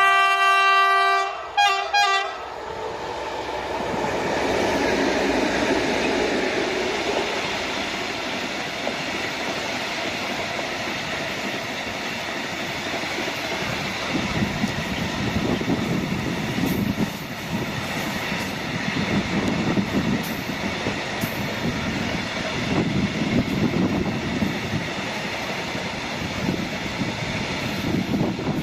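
Horn of a pair of 15D (SM48) diesel locomotives sounding a long chord blast and then a short one, followed by the train rolling past with steady wheel rumble and clickety-clack.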